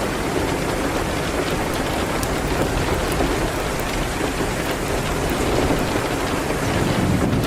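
Steady rain pattering on a window, a dense even hiss with scattered faint sharp ticks of individual drops.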